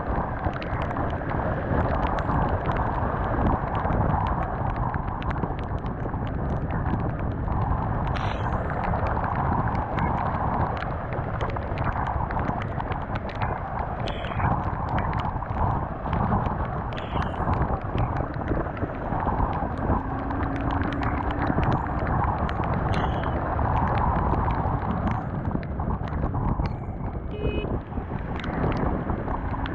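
Riding noise from a Honda CBR250R motorcycle in the rain: wind rushing over the GoPro, over the bike's engine and the hiss of tyres on a wet road, with many small ticks of raindrops hitting the camera.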